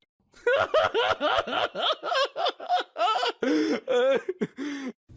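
A person laughing: a rapid run of short rising-and-falling laughs that starts about half a second in and becomes slower and longer near the end.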